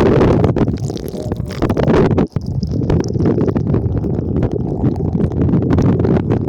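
Stream water rumbling and gurgling through a submerged, waterlogged phone microphone: a loud, muffled low rumble with a stream of small clicks, and a brief dropout about two seconds in.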